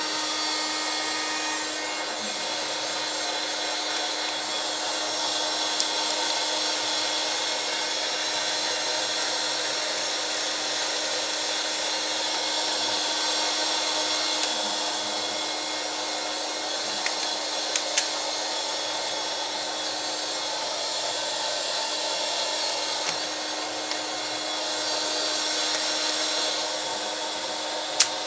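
Small vacuum cleaner running steadily with a constant hum, hoovering dust out of a cassette recorder's case, with a few light clicks now and then.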